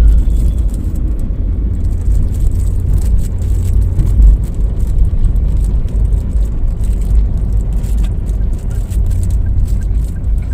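Steady low rumble of a car heard from inside the cabin while driving. A faint, regular ticking comes in about eight seconds in.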